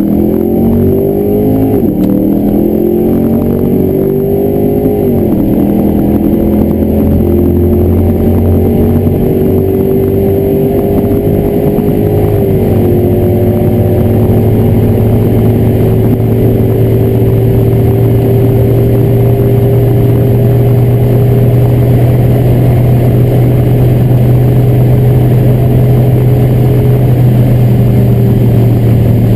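Turbocharged car engine at full throttle on a drag run. Its pitch climbs and drops sharply at three gear changes, about 2, 5 and 12 seconds in, then holds nearly steady and slowly rises at high speed.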